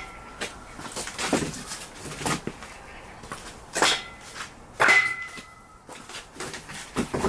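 Split firewood logs knocking together as they are handled and stacked: irregular hard knocks, a couple of them leaving a brief ringing tone.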